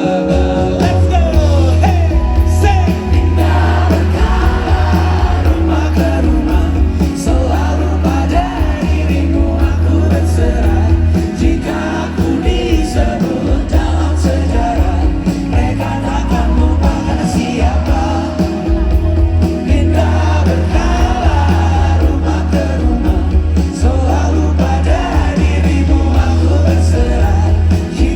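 Live pop-rock band music with singing, played loud with a heavy, pulsing bass, recorded from within the concert audience.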